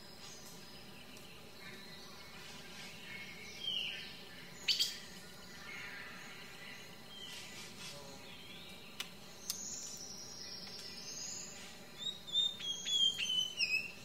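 Birds calling over a steady background hum: scattered short chirps and whistles, a long falling whistle about ten seconds in, and a quick run of chirps near the end.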